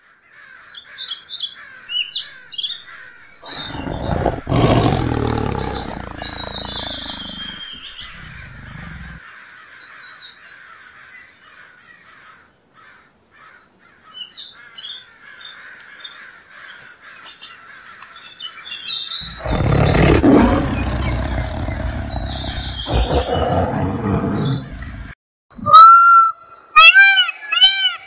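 A lion roaring in two long, deep bouts over steady chirping of small birds. Near the end, after a brief break, a fast series of high, arching calls begins.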